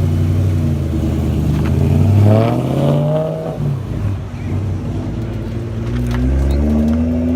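Supercar engine revving: its note climbs sharply about two seconds in and falls back a second or so later, then runs lower and steadier before starting to climb again near the end.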